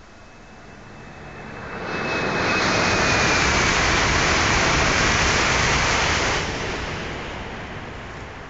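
CRH2C high-speed train passing at speed: a rushing noise swells over about two seconds and holds loud for about four seconds, with a thin high whine falling slightly in pitch as it comes in. About six seconds in the rush drops away suddenly and then fades.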